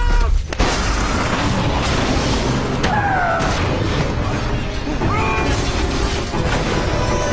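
Film soundtrack: loud, dense music mixed with booming crash sound effects.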